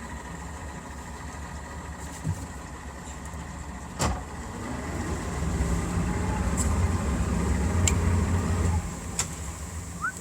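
Boat engine idling with a steady low hum, getting louder from about halfway through and dropping back near the end, with a few sharp knocks.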